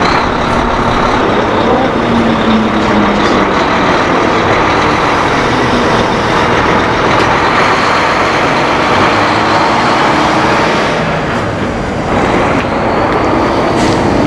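Heavy diesel semi-truck passing at road speed: engine and tyre noise, loud and steady, easing for a moment about twelve seconds in before rising again.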